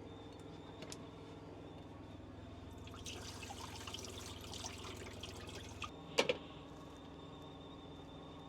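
Water pouring and trickling as rice is rinsed in a pot and the cloudy rinse water is poured off, with a sharp knock about six seconds in.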